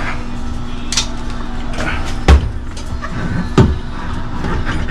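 Two sharp knocks, a little over a second apart, of tools or metal parts being handled, with a lighter click before them. Under them runs a steady background hum.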